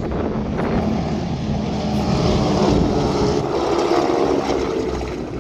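Propeller engines of North American Harvard trainers in an aerobatic formation flying past, a loud steady drone.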